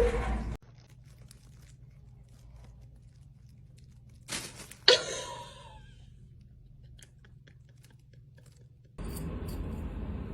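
Faint crunching and chewing clicks, with two sharper, louder crunches about four and five seconds in. A steady background hiss starts near the end.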